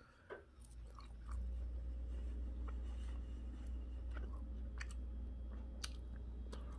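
A person chewing a bite of air-fried chicken, with faint soft mouth clicks. Beneath it is a low steady hum that comes in about a second in and stays.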